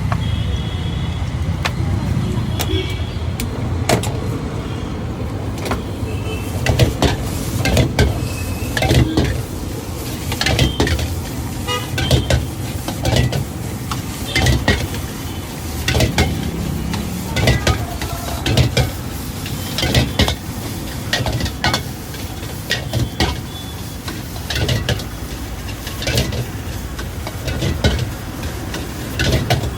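Busy street ambience: a steady low engine-like rumble of traffic, with frequent sharp clanks and knocks from about six seconds in and some faint voices.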